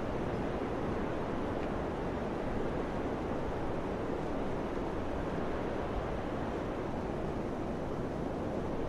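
Steady wind rushing with a constant, even hiss, and brief low buffeting of wind on the microphone about six seconds in.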